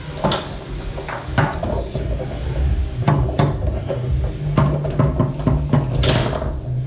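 Foosball and rod-mounted men on a Tornado foosball table clacking during a rally: a dozen or so sharp, irregular knocks of the ball being struck and hitting the table walls.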